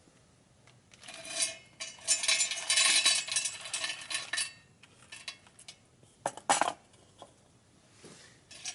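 Metal camping gear clattering and rattling for a few seconds, with a ringing metallic note, then a few sharp metal knocks.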